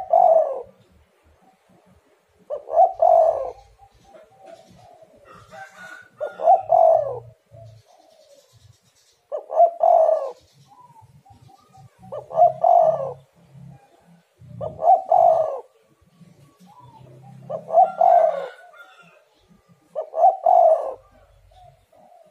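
Spotted dove (tekukur) cooing: a repeated phrase of a few coos, each phrase about a second long, coming about every two and a half to three seconds. It is a lure call meant to set other tekukur calling.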